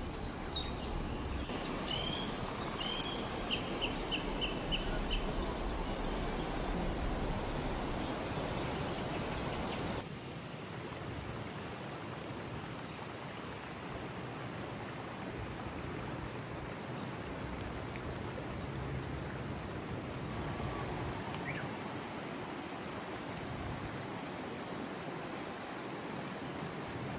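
Outdoor countryside ambience: a steady rushing hiss, with a bird chirping a quick run of short notes in the first few seconds. The background changes and turns slightly quieter about ten seconds in.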